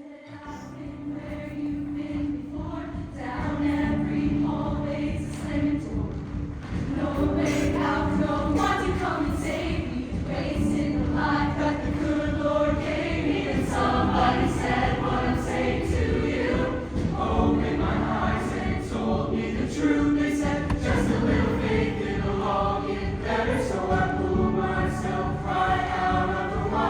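Show choir singing in harmony over instrumental accompaniment, swelling up from quiet over the first few seconds and then holding at full level.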